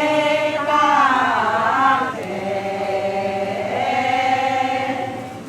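A group of voices singing a Siraya khan-khiok (牽曲) ritual chant in long, drawn-out notes, one held steady through the middle and easing off near the end.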